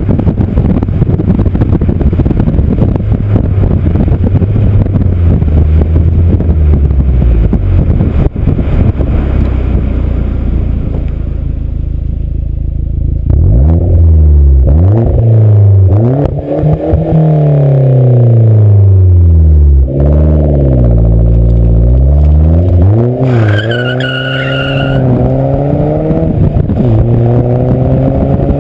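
Hyundai Genesis Coupe 2.0T's turbocharged four-cylinder through an Exceladyne cat-back exhaust, first a steady loud drone, then revving up and down repeatedly in the second half. A brief high squeal cuts in about three-quarters of the way through.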